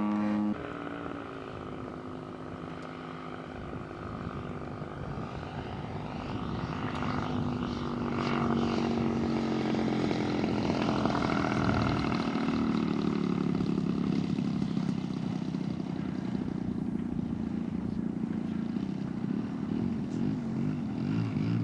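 Large-scale RC Super Decathlon model airplane's engine and propeller in flight, the pitch sliding as the throttle and distance change, growing louder about a third of the way in and wavering near the end.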